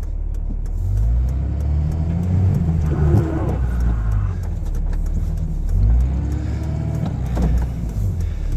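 Pickup truck engine running and revving, its pitch rising and falling twice, as a vehicle works for traction on a snowy, slick road.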